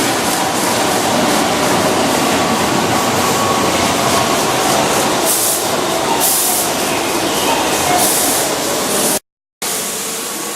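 Keihan 2600-series electric train running, a loud steady rail noise with a few short hissy bursts. The sound cuts out completely for a moment about nine seconds in, then comes back quieter.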